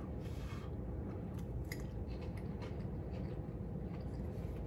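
A person chewing a hot mouthful of cornbread and hot dog casserole: faint, scattered soft mouth clicks over a steady low background hum.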